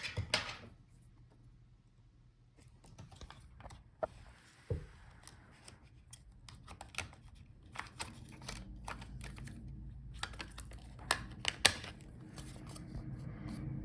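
Scattered light clicks and taps of a laptop's small internal parts being handled by hand, with a few sharper knocks among them.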